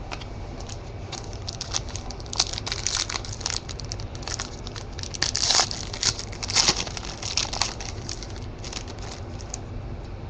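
Wrapper of a trading-card pack being handled, crinkling in a run of short crackles that are loudest a little past the middle.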